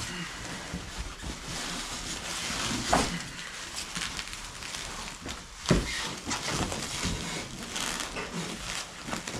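Rustling and crinkling handling noise from packing an outboard motor into a cardboard box with foam wrap. Two sharp knocks stand out, one about three seconds in and a louder one near six seconds.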